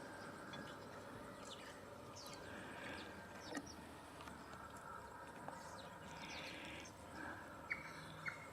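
Faint, scattered bird chirps and short calls over quiet outdoor background noise, with a single soft click about three and a half seconds in.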